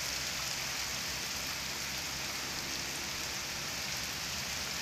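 Steady rain falling and pattering on surfaces, an even hiss that doesn't let up.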